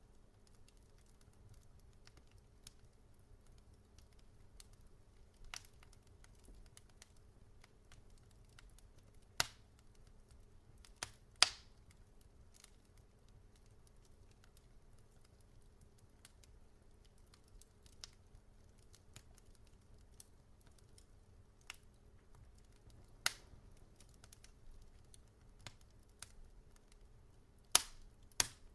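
Wood fire crackling in a fireplace: irregular sharp pops and snaps from the burning logs over a faint low hiss, with the loudest pops about ten seconds in and a quick cluster near the end.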